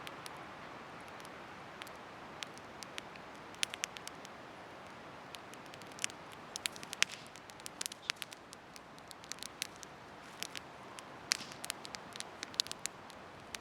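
Wood bonfire crackling: irregular sharp pops and snaps, more frequent in the second half, over a steady soft rush of the burning fire.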